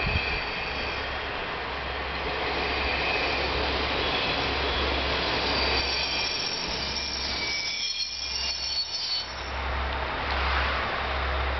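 KiHa 47 diesel railcar rolling into a station and braking to a stop, with several high squealing tones from the wheels and brakes over the running noise. The squeal fades out about eight to nine seconds in as the train comes to rest.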